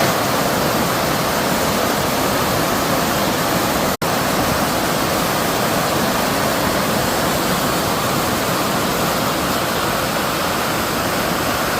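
Fast-flowing stream rushing steadily. The sound cuts out for an instant about four seconds in.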